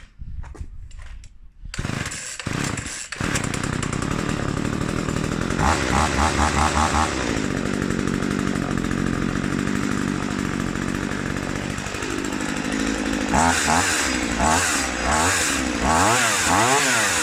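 Spear & Jackson chainsaw's two-stroke petrol engine catching about two seconds in, then idling steadily with a brief burst of revs and, near the end, several quick blips of the throttle up and down. It keeps running now that fuel reaches the carburettor through the primer bulb.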